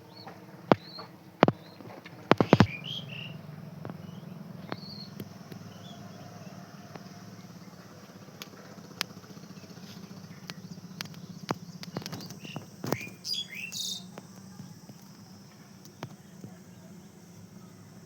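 Birds chirping in short, scattered calls, mixed with several sharp clicks and taps that are loudest about two and a half seconds in and again near thirteen seconds, over a steady low hum.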